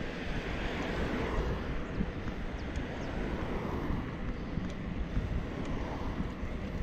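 Steady rushing wind noise on the microphone of a camera mounted on a moving bicycle, mixed with road and traffic noise.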